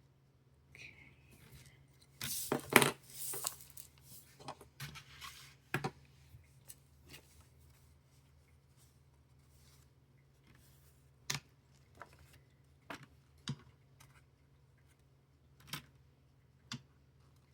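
Small plastic building bricks being handled: a cluster of rattling and rustling about two seconds in, then scattered single clicks as pieces are pressed together.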